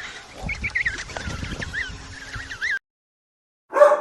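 Penguins calling: many high, wavering chirps over a low rumble, which stop suddenly a little under three seconds in. A single loud, short call sounds near the end.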